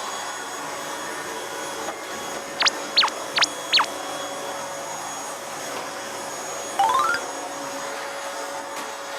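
Vacuum cleaner running steadily, with a constant hum tone in its noise. About three seconds in come four quick sliding whistle-like tones, and around seven seconds a short rising run of beeps.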